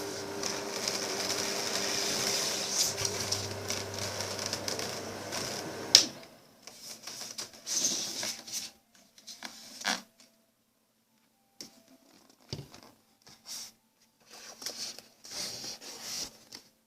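A small motor runs steadily with a hum and then cuts off suddenly with a click about six seconds in. Short, irregular scraping and rubbing noises follow.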